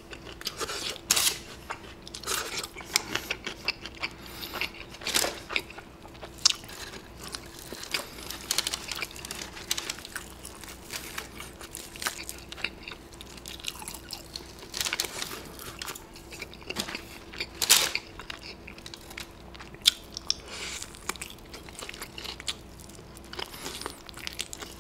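Close-up eating sounds: crisp, thin-battered fried chicken being bitten and chewed, with irregular crackly crunches under the teeth throughout.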